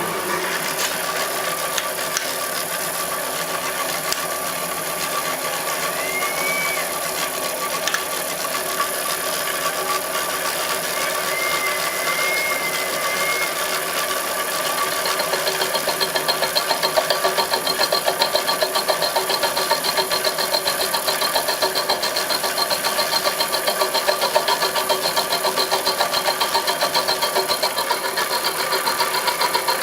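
Homemade milling machine running with a steady mechanical rattle. About halfway through it grows louder and takes on a rapid, even pulsing.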